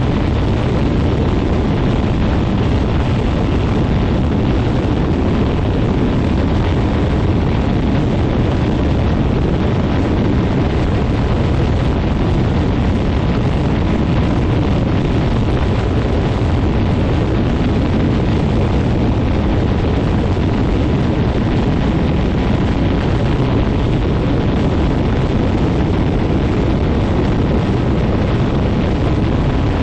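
Quicksilver MX ultralight float plane's engine and propeller running steadily, with the prop blast buffeting the microphone as loud, heavy wind noise.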